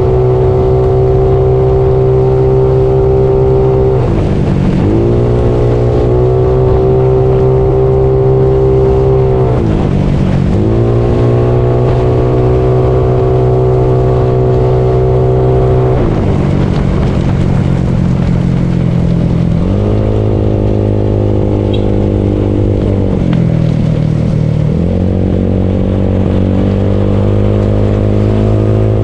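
Bored-up Yamaha Mio scooter engine running while riding. Its pitch holds steady, then dips and climbs back several times as the throttle is eased off and reopened.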